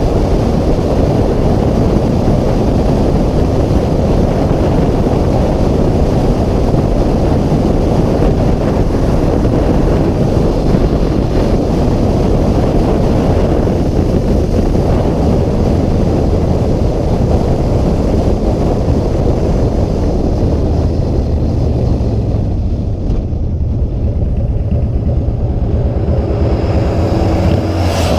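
Motorcycle riding at speed: heavy wind rush on the microphone over the engine's drone. In the last few seconds the wind eases and the engine's steady note comes through more clearly.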